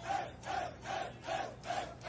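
A crowd chanting together in a steady rhythm, about three or four shouts a second, cheering for a battle rapper whose name the host has just called for a vote by crowd noise.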